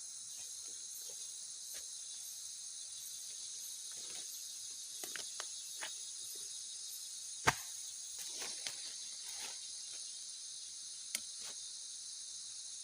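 Forest insect chorus, a steady high-pitched drone with a faster pulsing trill above it. Scattered clicks and knocks sound over it, the loudest a single sharp knock about halfway through.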